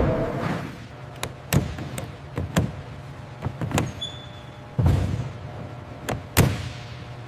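A series of irregular taps and knocks, about a dozen, with two heavier thuds near five seconds and six and a half seconds in, the second the loudest, over a low steady hum.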